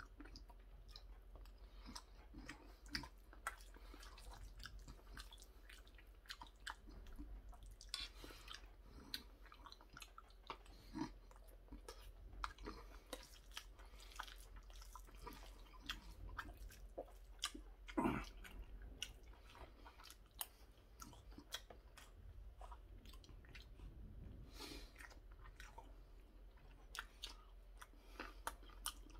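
Close-up chewing of mouthfuls of curry rice, with many small wet mouth clicks and the occasional scrape or clink of a metal spoon in a stainless steel bowl. One louder sound about two-thirds of the way in.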